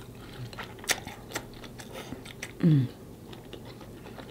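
Close-up mouth sounds of someone chewing lobster tail, with a couple of sharp wet smacks about a second in and a short falling "mmm" a little past halfway.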